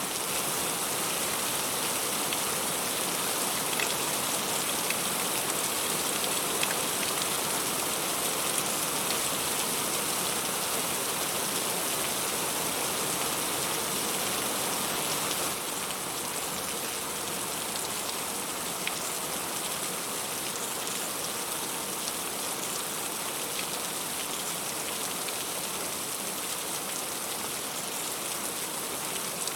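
Heavy rain falling steadily on fruit and leaves, a dense hiss with scattered sharper drop hits; it eases slightly about halfway through.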